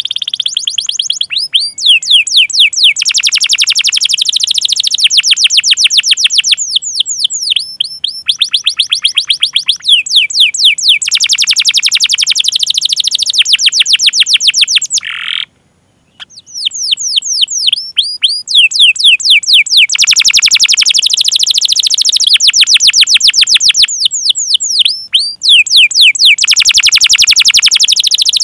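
Domestic canary singing long rolling trills: fast runs of repeated sweeping chirps ('cuit cuit') that change pace from phrase to phrase. About halfway through, a short buzzy note is followed by a silence of about a second.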